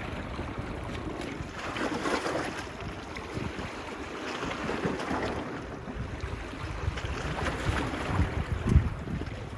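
Small waves washing on a beach, the wash swelling and fading every few seconds, with wind buffeting the microphone in low gusts.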